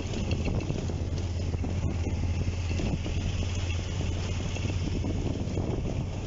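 Motorcycle engine running at a steady cruising speed while riding, with wind rushing over the microphone.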